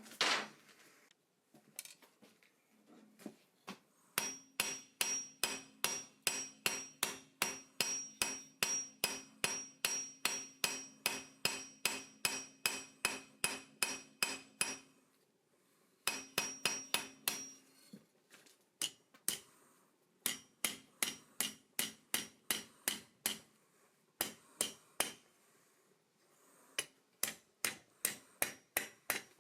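Hand hammer forging hot steel bar on an anvil: long runs of quick blows, about three a second, each with a short metallic ring, broken by a few brief pauses. A short noisy rush comes right at the start.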